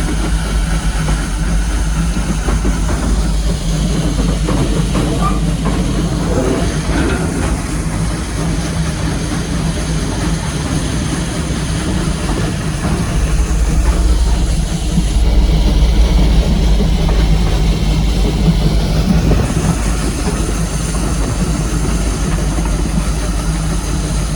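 A heritage train running along the track, with a steady rumble of the wheels and carriages that grows somewhat louder for a few seconds past the middle.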